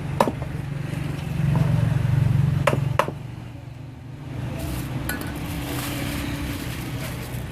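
A few sharp knocks of a knife striking a cutting board, two of them close together about three seconds in, over a low steady hum that swells for a couple of seconds.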